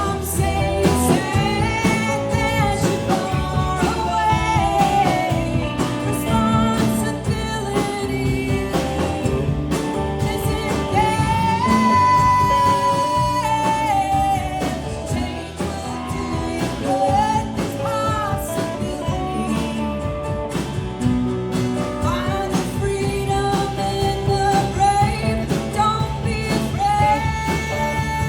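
A live band playing a country-rock song: a singer's voice over guitars and a steady beat, with one long held vocal note midway.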